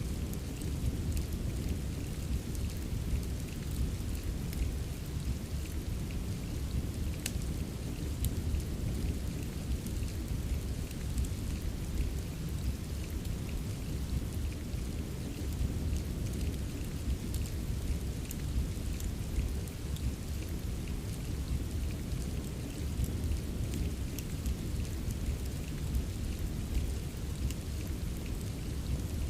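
Steady rain mixed with a fireplace: an even wash of rain over a deep, constant low rumble, with scattered sharp crackles throughout.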